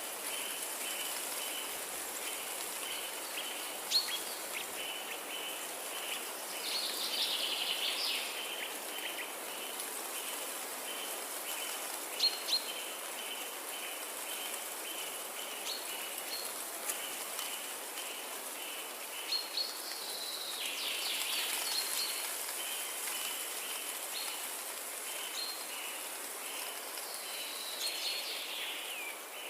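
Forest ambience: birds call and sing in short phrases over a steady background hiss, with a high chirp repeating evenly throughout.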